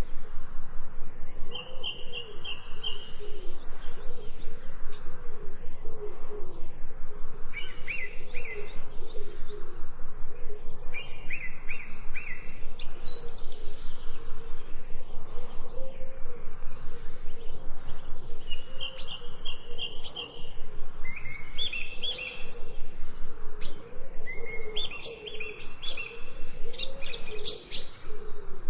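Wild songbirds chirping and singing in short trilled phrases that repeat every few seconds, over lower wavering calls from another bird.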